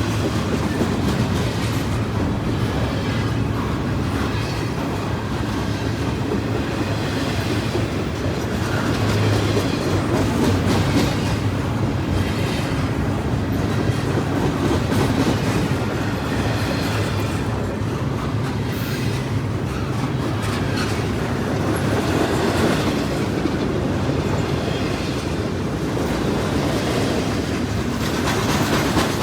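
Freight train cars rolling past at steady speed, their wheels clicking and clacking over the rail joints.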